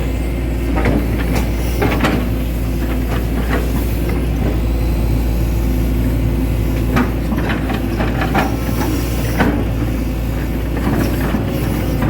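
Hitachi Zaxis 110 excavator's diesel engine running steadily under working load, with scattered short knocks and clanks from the machine as it digs.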